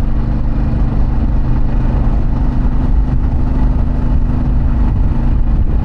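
2024 Harley-Davidson Pan America's Revolution Max 1250 V-twin running at a steady speed through a Vance & Hines exhaust.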